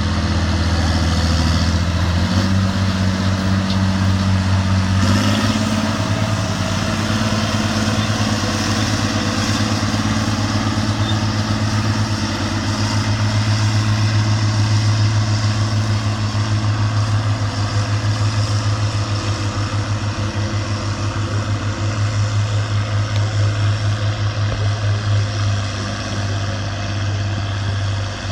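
Farm tractor diesel engine running hard under load as it pulls the sled. Its pitch steps up twice in the first few seconds, then holds steady, with a rhythmic throb in the loudness near the end.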